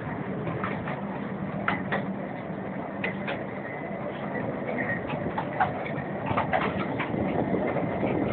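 Miniature railway train running: a steady rumble with irregular clicks and knocks.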